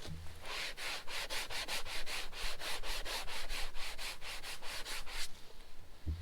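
Damp magic eraser (melamine foam) scrubbed back and forth on a plastic interior trim panel, a quick even rubbing at about four or five strokes a second that stops about a second before the end.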